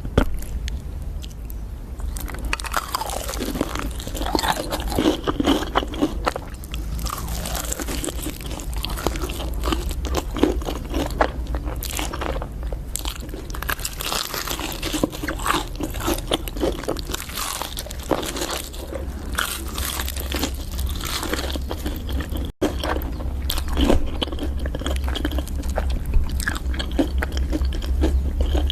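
Close-up eating sounds: crunchy food being bitten and chewed, with dense, irregular crackling crunches, over a steady low hum. The sound cuts out for an instant about three-quarters of the way through.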